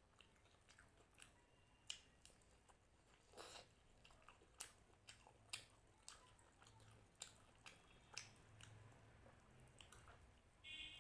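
A person chewing crunchy food close to the microphone, with irregular sharp, crisp crunches and mouth sounds.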